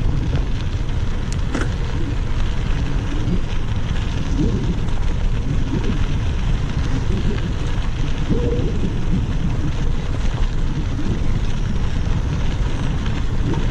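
Wind buffeting the microphone of a camera riding on a moving bicycle: a loud, steady, uneven low rumble, with a brief click about a second and a half in.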